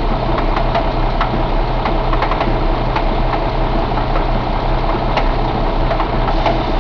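2017 Paccar MX13 inline-six diesel engine idling steadily, with sharp ticks several times a second over the running.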